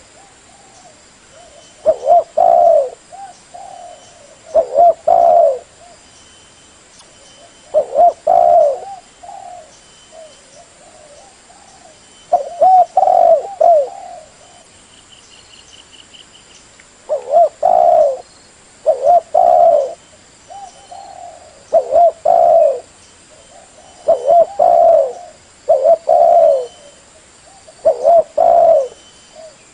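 Spotted dove (tekukur) cooing: rolling coo phrases repeated every two to four seconds, with short gaps and a longer pause about a third of the way through.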